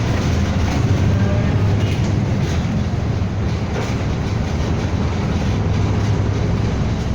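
City bus driving along, heard from inside the cabin: a steady low engine drone under a constant haze of road and cabin noise.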